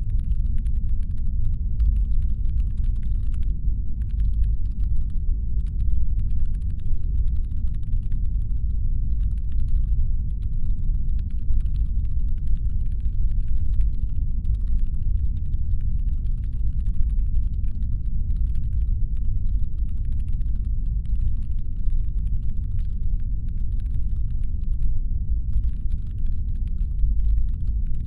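Steady, deep brown-noise rumble made as a spaceship engine hum, with a faint, fast crackle of tiny clicks high above it.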